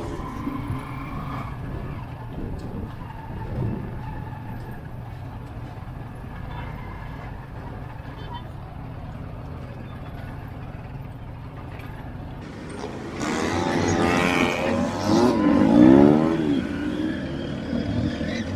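Small motorcycle engine of a sidecar tricycle running in traffic over steady road noise. About 13 seconds in it gets louder and revs, its pitch rising and falling for a few seconds.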